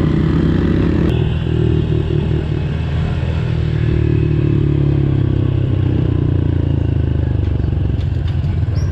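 Pit bike engines running steadily while riding, with small shifts in engine pitch and a sharp click about a second in.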